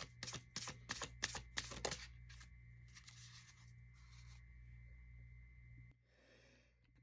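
A deck of oracle cards shuffled by hand: a quick run of crisp card snaps over the first two seconds, then softer sliding and rustling of cards, fading to quiet.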